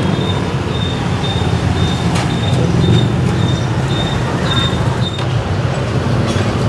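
Steady low rumble of street traffic, with a faint high-pitched tone pulsing on and off and a few sharp knocks.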